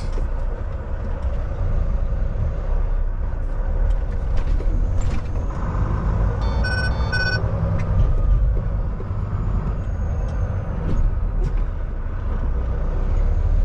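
Semi truck's diesel engine running steadily, heard from inside the cab, with two short electronic beeps about halfway through.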